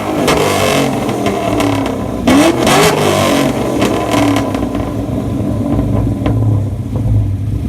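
Modified car engine revved hard, its pitch climbing twice in the first few seconds with sharp crackles from the exhaust, then falling back to a lower steady rumble.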